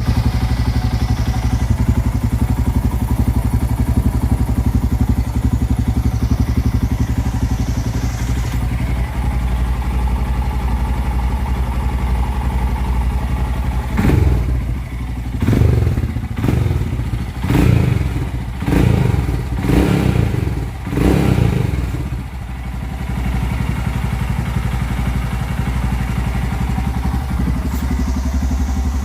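Royal Enfield Himalayan single-cylinder engine idling steadily, blipped with about six short revs in a row around the middle before settling back to idle.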